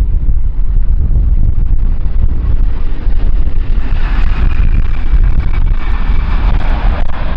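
Strong gusting wind buffeting the microphone, a heavy low rumble throughout. From about four seconds in, a jet airliner's engines grow louder with a thin whine.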